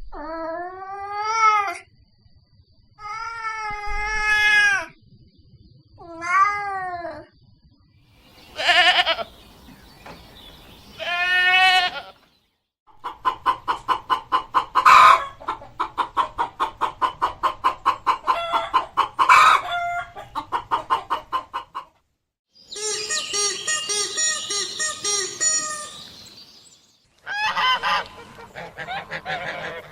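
Farm animal calls in a string of separate clips: first several wavering, pitched bleats like a goat's, then a long run of rapid chicken clucking at about four calls a second, and near the end a harsher burst of fowl calls.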